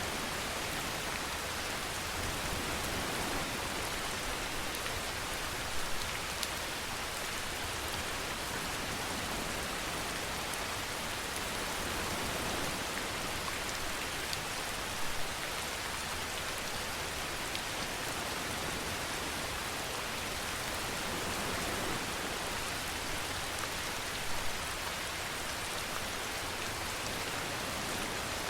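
Steady rainfall, a dense even hiss with individual drops ticking on a surface, and a few brief louder drop hits spread through it.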